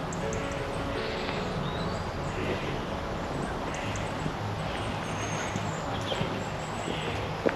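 Outdoor town ambience: a steady low hum with a few short, high bird chirps now and then.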